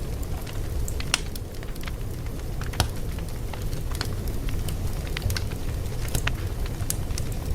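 Wood fire crackling: a steady low rumble of burning with irregular sharp pops and snaps, several a second.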